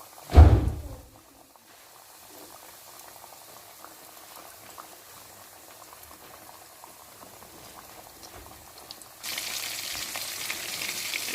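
Breaded chicken pieces deep-frying in hot oil in a pot, a steady bubbling sizzle. A loud thump comes about half a second in, and the sizzle turns much louder and brighter near the end.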